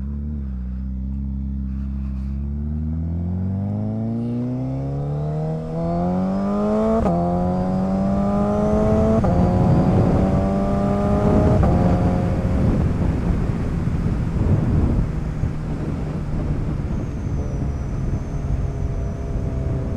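Motorcycle engine accelerating hard through the gears: the pitch climbs steadily, then drops sharply at upshifts about seven, nine and twelve seconds in. It then settles into a steady cruise under a rush of wind noise.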